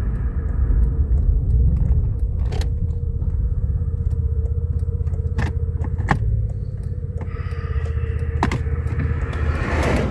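Motor vehicle driving: steady low engine and road rumble with a constant hum, and scattered small clicks and rattles throughout.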